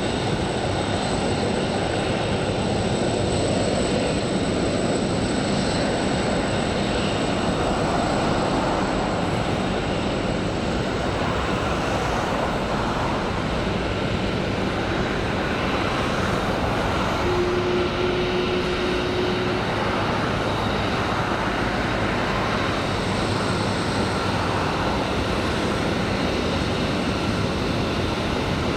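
Jet airliner engines running steadily on the ground, with a faint high whine over an even rush of noise. A short steady low tone sounds for about two seconds, a little past the middle.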